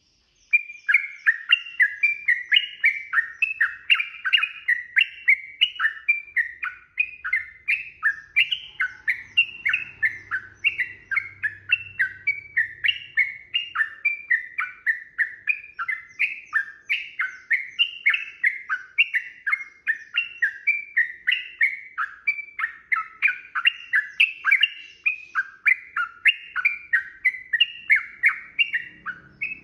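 Yellow-vented bulbul singing a long, unbroken run of rapid chattering notes, about three a second, starting half a second in.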